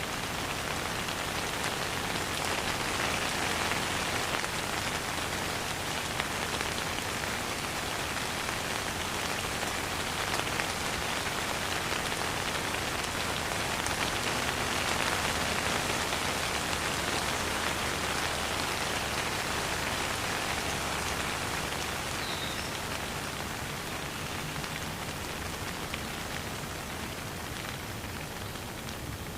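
Steady rain falling on surfaces, a dense even patter with no thunder, easing slightly toward the end.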